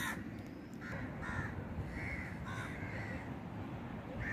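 Birds calling outdoors: a string of about six short, arched calls spread over a few seconds, over a steady low background rumble.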